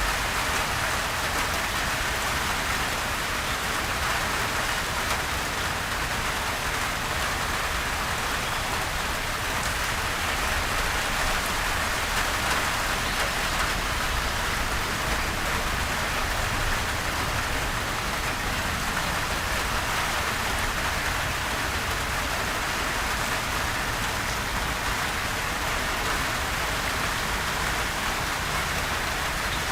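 Steady rain falling on surfaces, an even hiss of many drops with no thunder and no music.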